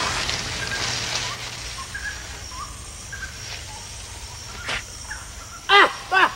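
Rainforest ambience: a steady hiss, a faint high insect-like tone and scattered short bird chirps. Near the end comes a quick run of loud, shrill, arching animal cries.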